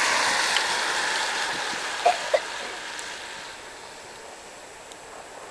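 City bus driving past and pulling away, its engine and tyre noise a steady rush that fades over the first three or four seconds.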